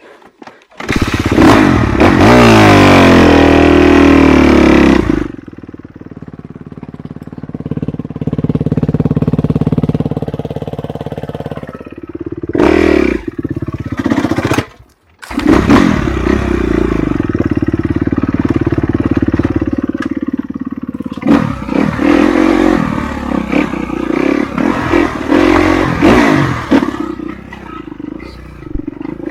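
Enduro dirt bike engine running under throttle, its pitch climbing hard in the first few seconds, then rising and falling as the rider works the throttle. There is a short break in the sound about halfway before the engine picks up again.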